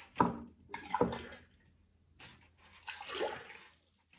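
Water poured from one cup into another, splashing in several short separate pours.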